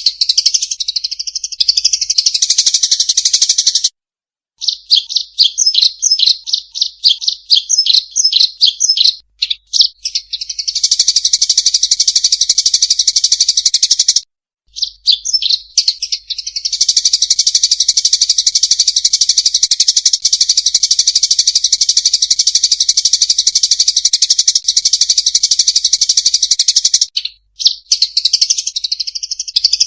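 Eurasian tree sparrows chattering and chirping fast and shrill in agitated fighting calls, nearly without pause. A run of separate quick chirps sounds about five to nine seconds in, and the chatter breaks off briefly three times, at about four, fourteen and twenty-seven seconds.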